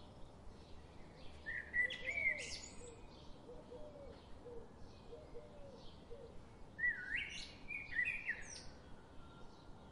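Birds singing: two loud song phrases, each opening with a rising whistle and running up into high, quick notes, about two seconds in and again about seven seconds in. Between them are softer low notes, and faint chirps repeat a few times a second throughout.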